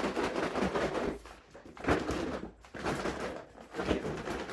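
Paper bag of caramel-coated popcorn being handled and shaken, crinkling and rattling in four short bursts.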